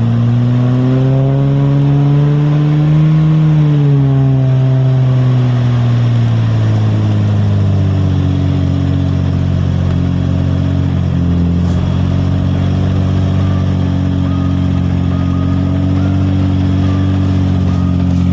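Off-road 4x4's engine running under load: it revs up for about three seconds, falls back over the next few seconds, then holds a steady lower speed.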